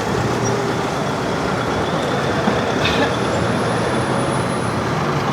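Busy city street traffic: a steady wash of road vehicle noise, with a short knock about three seconds in.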